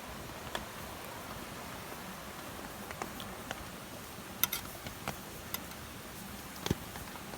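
Steady light rain with scattered drops ticking irregularly, a few of them sharper, about four and a half and near seven seconds in.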